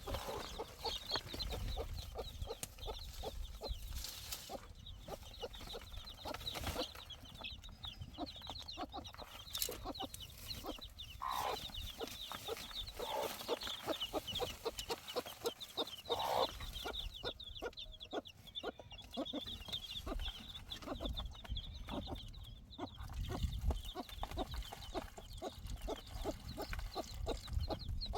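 Chickens clucking, with many short clicks and taps running through.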